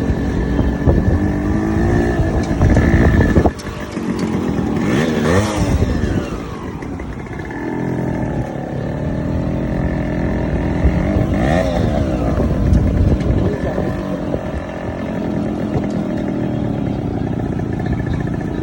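Modified Yamaha RX two-stroke single-cylinder motorcycle engine running, its revs rising and falling several times, with a sudden drop about three and a half seconds in.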